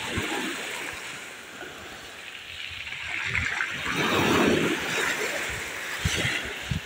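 Sea waves washing onto the shore, a steady surf wash with one wave building and breaking about four seconds in.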